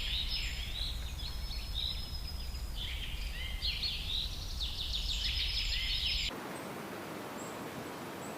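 Songbirds chirping and trilling in quick, overlapping high phrases over a low background rumble. About six seconds in, this cuts off suddenly and gives way to a steady rushing noise.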